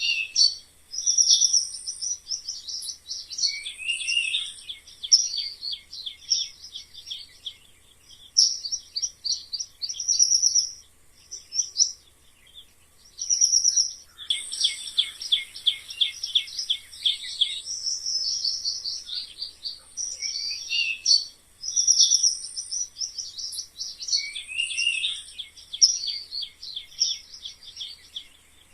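Rapid series of high-pitched chirping squeaks, coming in bursts with brief pauses, some ending in short falling glides.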